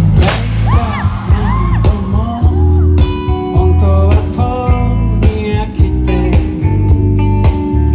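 Live pop-rock band playing, with a drum kit beat, bass guitar and electric guitar.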